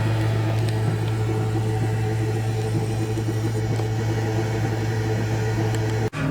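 Steady low mechanical hum with a strong constant tone, from a running scale model of a 1950s MAN four-stroke diesel engine. It cuts out abruptly near the end and comes back at a slightly higher pitch.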